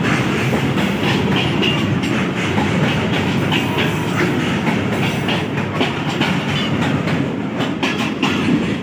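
Coal hopper wagons and the brake van at the tail of a freight train rolling past at speed: a steady rumble with the clickety-clack of the wheels over the rail joints.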